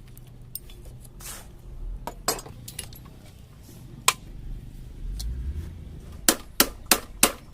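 Hand tools clinking against metal parts, with scattered single knocks, then a quick run of sharp, evenly spaced taps, about three a second, starting near the end.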